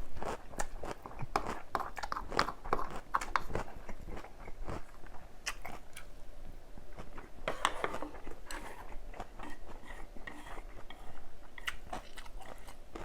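A person chewing food close to the microphone, with many crisp crunches that are busiest in the first few seconds and again a little past the middle.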